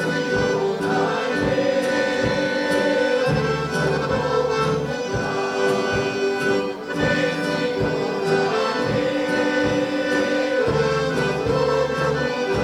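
Accordion playing Serbian folk dance music, held chords over a steady beat.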